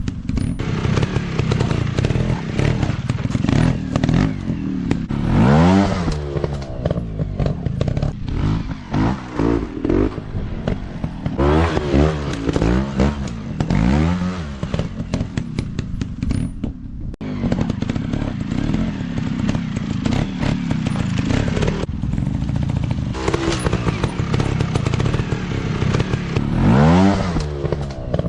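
Off-road dirt bike engine revving up and dropping back again and again, with clattering from the bike riding over rough ground.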